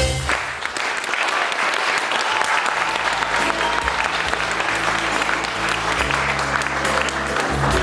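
Audience applauding as a song ends, with low, steady bass notes of the next piece of music coming in about three seconds in.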